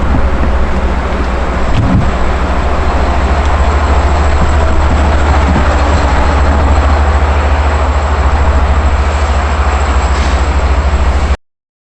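Long Island Rail Road eight-car train running past at close range: steady loud rolling rumble with a thin high whine above it, cutting off suddenly about eleven seconds in.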